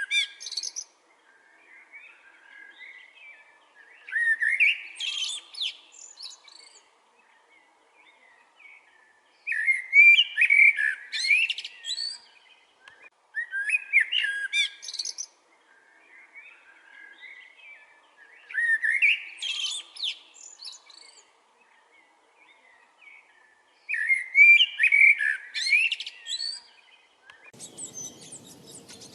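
Small birds singing and chirping: a loud bout of quick high twittering phrases every four to five seconds, with softer chirps in between. Near the end a steady hiss comes in.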